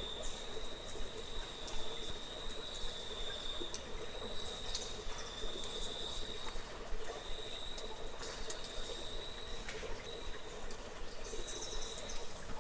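Insects trilling: a steady high trill broken by short gaps every second or two, over a fainter lower drone, with scattered faint clicks and ticks.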